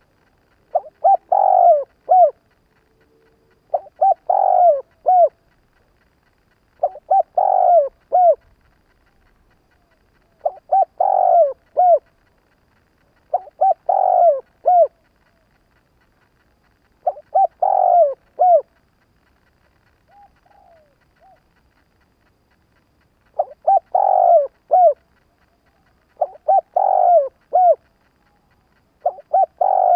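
Spotted dove cooing its calling song: a phrase of several coos repeated about every three seconds. One phrase about two-thirds of the way through is much fainter and shorter.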